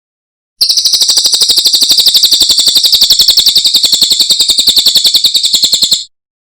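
Cililin bird singing a loud, fast, high-pitched trill of about a dozen sharp chirps a second. It starts about half a second in and cuts off abruptly near the end.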